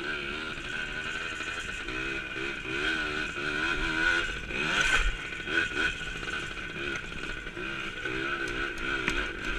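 Small 100cc dirt bike engine being ridden, its pitch rising and falling repeatedly with the throttle, with a brief clatter about five seconds in.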